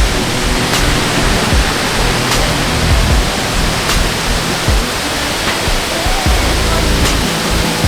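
Waterfall roaring as a steady rush of falling water, with background music over it: bass notes and a light beat that falls about every second and a half.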